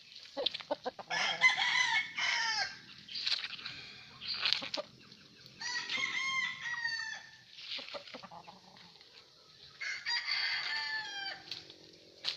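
Gamefowl roosters crowing: three long crows, each about a second and a half, ending on a falling pitch, with short clucks between them.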